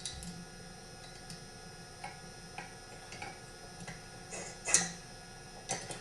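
Scattered small metallic clicks and clinks as a flywheel puller and its bolts are fitted to a chainsaw flywheel, with one louder clink a little before the end.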